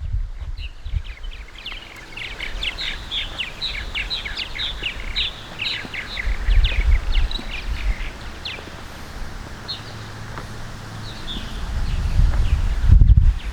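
Barn swallows twittering: a quick run of short high chirps for about the first eight seconds, then scattered calls. Wind rumbles on the microphone in gusts, loudest near the end.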